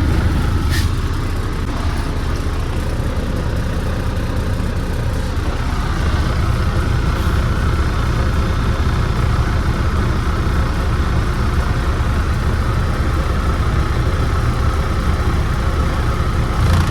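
Semi-truck's diesel engine running steadily, a constant low hum heard from inside the cab.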